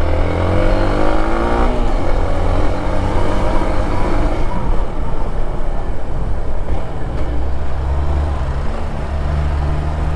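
Motor vehicle engine revving, its pitch rising over the first couple of seconds, then running on under a loud noisy wash, settling to a steady low engine note near the end.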